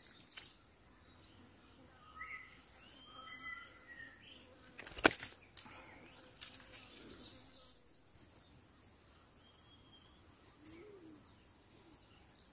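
Faint bird calls, a few short chirps that come and go, in quiet outdoor surroundings. A single sharp click about five seconds in, followed by a few softer knocks.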